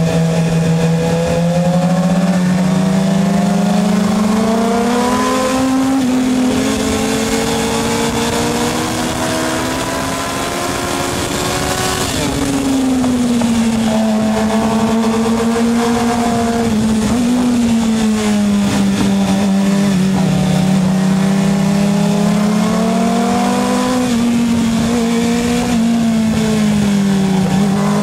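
Motorcycle engine running hard without a break, its pitch climbing and falling over and over as it accelerates and slows, with a slight drop in loudness about a third of the way through.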